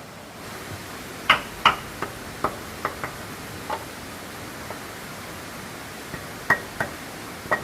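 Hammer knocking on wood: about ten sharp, irregularly spaced taps, each with a brief ring.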